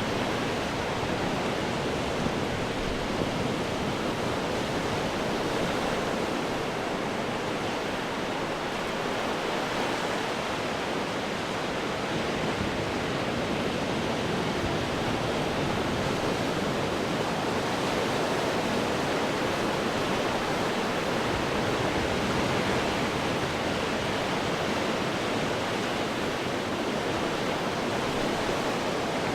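Ocean surf washing against rocks: a continuous, steady rush of breaking water that swells and eases gently, without separate crashes standing out.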